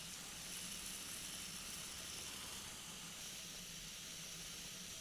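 Faint, steady drone of a flexwing microlight trike in level cruise: a low engine hum under an even wash of hiss.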